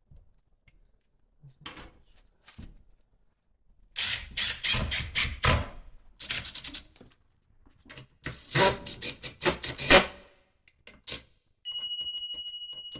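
Hand work noise: runs of scraping and knocking strokes, loudest in the second half. Near the end comes a steady high-pitched pulsing tone like an electronic beep.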